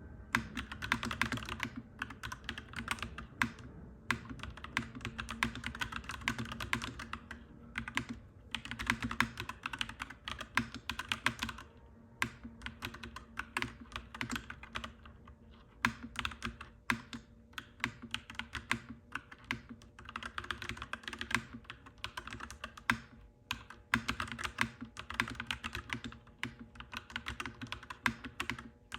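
Clacky mechanical keyboard typing in fast flurries of keystrokes, thinning to scattered single keystrokes for a few seconds around the middle, over a faint steady low hum.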